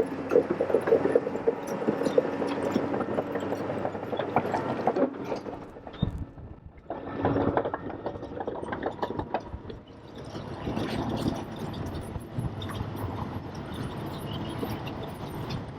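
New Holland 6090 tractor's engine running as it works with a Caterpillar scraper pan, with steady rattling and clanking of metal. The sound changes about six seconds in, where it dips with a low thump, and then carries on thinner.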